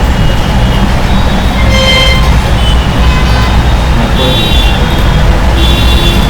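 Steady rumble of road traffic with brief vehicle horn toots about two seconds in and twice more near the end.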